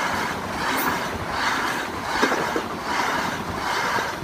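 High Speed Train (InterCity 125) coaches rushing past at speed between the two Class 43 power cars. The wheel and rail noise swells and fades in a steady rhythm, about once every three-quarters of a second.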